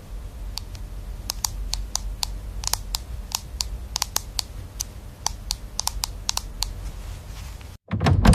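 Irregular sharp clicks and taps, a few each second, over a steady low hum; the sound cuts out briefly near the end and is followed by a louder knock.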